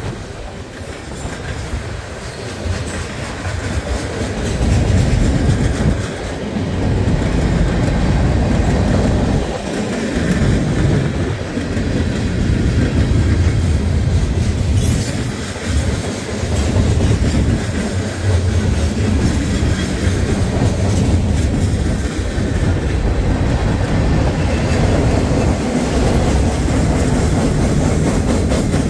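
Loaded freight cars of a long manifest train rolling past: a loud, steady low rumble of steel wheels on the rails that swells and dips as the cars go by, with clickety-clack of wheels over rail joints.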